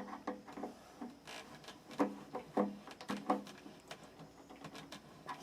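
A run of sharp metallic knocks and clinks, several ringing briefly, from tools and metal parts handled at the water heater's access panel.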